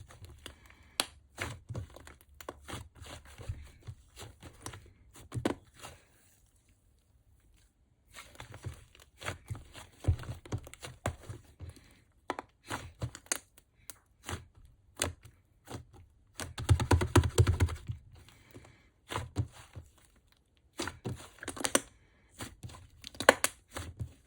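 White clay slime being handled by hand: irregular sticky clicks, pops and tearing crackles as it is pressed, stretched and pulled apart. There is a brief pause about six seconds in, and the densest run of crackling comes about two thirds of the way through.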